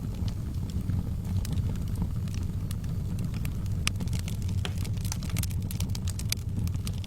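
Wood fire crackling in a fireplace: a steady low rumble of burning with scattered sharp pops and snaps, which come more often in the second half.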